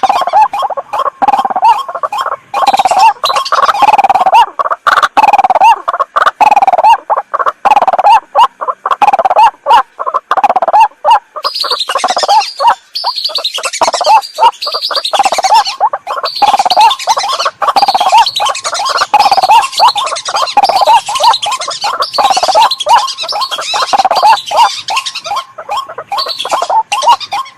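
Lure recording of birds calling: rapid, repeated harsh calls of white-breasted waterhens throughout. A second, higher chattering call joins about a third of the way in.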